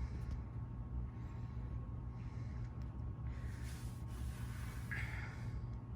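Alaska ceiling fan running, its motor giving a steady low hum, with faint rustling from about three seconds in.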